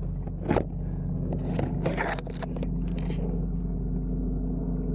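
A few short scrapes and rustles in the first three seconds, as the hunters handle the carcass among scrub and rock, over a steady low hum.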